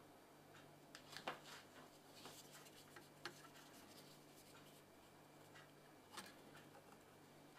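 Near silence with a few faint, scattered clicks and light scratching from small handling at a workbench, over a faint steady low hum.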